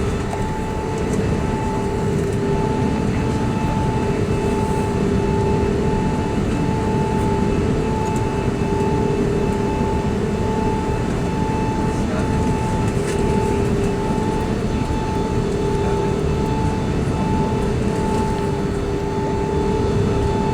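Steady cabin noise inside an Airbus A380-800 with Rolls-Royce Trent 900 engines: a constant rumble and rush of engine and airflow noise, with a faint hum that pulses about once a second.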